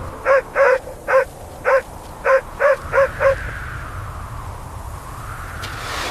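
A dog barking, a quick series of about nine barks over the first three and a half seconds, against steady blizzard wind that swells in a gust near the end.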